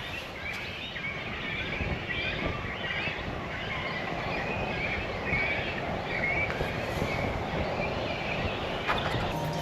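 Outdoor morning ambience: small birds chirping again and again over a steady background hiss.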